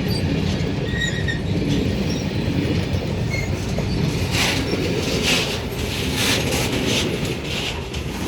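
Freight train rolling past: a steady rumble of wagon wheels on the rails, with brief high wheel squeals. From about four seconds in, a rhythmic clatter comes roughly once a second.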